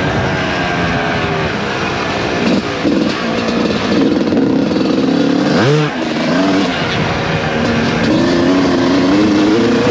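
Suzuki RM250 two-stroke single-cylinder motocross engine, heard onboard, revving up and down as the rider works the throttle and gears. About halfway through the revs rise sharply, then drop off briefly.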